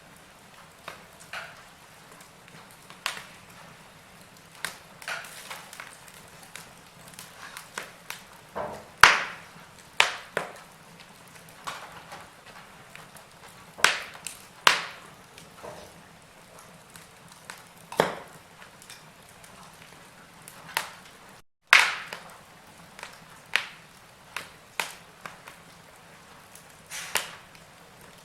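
Log fire crackling: irregular sharp pops and snaps from the burning wood, a few of them much louder, over a faint hiss. The sound drops out for an instant about two-thirds of the way through.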